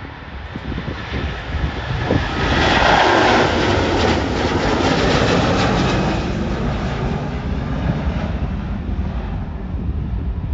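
Jet airliner passing close by, its engine noise swelling to a peak about three seconds in and then slowly fading, over a steady low rumble.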